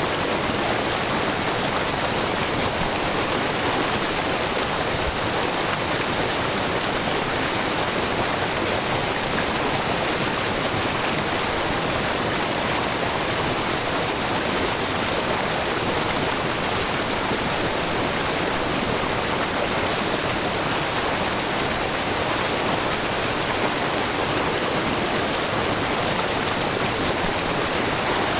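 Shiraito Falls: many thin streams of spring water spilling over a low, wide rock face into a brook, making a steady, even rushing of water.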